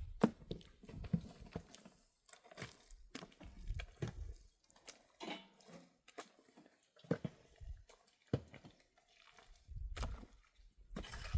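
Irregular short knocks and clicks, with patches of low rumbling.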